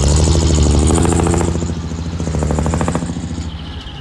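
Diesel engine of heavy earthmoving machinery running under load, with a rapid clattering rhythm through the middle.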